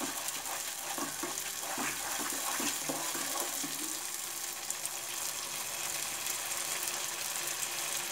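Spinach and tomato gravy sizzling steadily in a nonstick kadhai over a medium gas flame, with a spatula stirring and scraping through it for the first few seconds.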